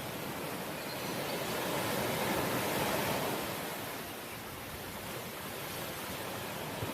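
Sea waves rushing in as a steady wash, one wave swelling to its loudest about three seconds in and then easing off.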